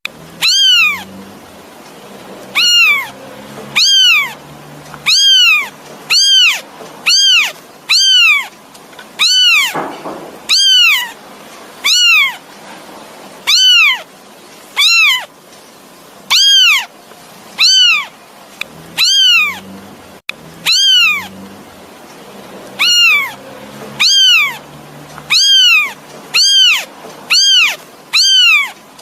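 A kitten meowing over and over, short high-pitched calls that rise and fall in pitch, about one a second: a kitten calling for its mother.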